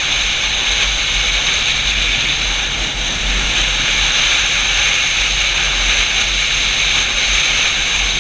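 Steady rushing of wind on the microphone of a moving Yamaha FZ-07 motorcycle, with a low rumble underneath.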